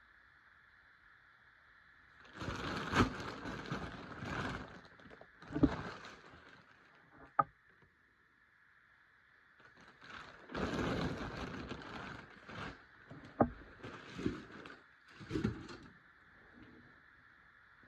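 Rustling and handling noise as a windbreaker is unboxed, in two bouts of a few seconds each, with several sharp clicks and taps.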